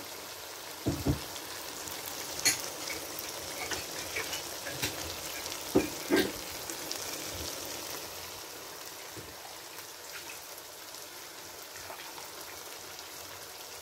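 Lamb and potato curry sizzling steadily in bubbling oil in a nonstick pan, with a few short knocks of handling along the way.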